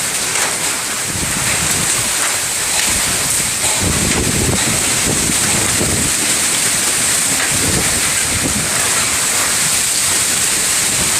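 Heavy rain with small hail, about 1 cm across, pouring down in a thunderstorm as a steady loud hiss. Gusts of wind buffet the microphone in low rumbling surges, strongest about four to five seconds in.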